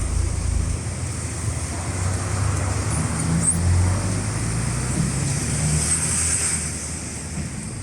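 Steady low rumble of a car's engine and road noise heard from inside the moving car, with tyres hissing on the wet road; the hiss swells briefly about six seconds in.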